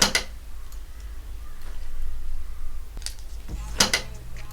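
Two sharp clicks or knocks of something being handled, one at the start and one about four seconds in, over a low steady hum.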